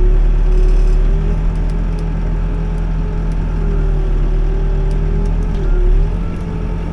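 Backhoe's diesel engine running steadily under load, its pitch sagging briefly twice as the hydraulics take the strain, with a few faint clicks.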